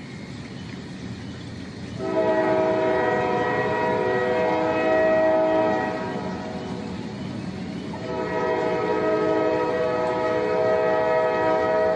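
Locomotive air horn sounding two long, steady blasts, the second starting about two seconds after the first ends, over the rumble of a passing train.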